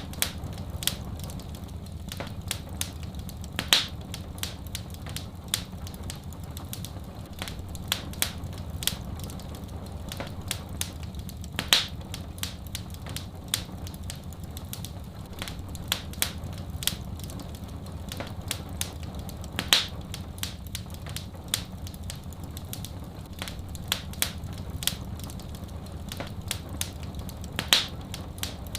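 Wood fire crackling in a fireplace: many small snaps and crackles, with a louder pop about every eight seconds, over a steady low rumble.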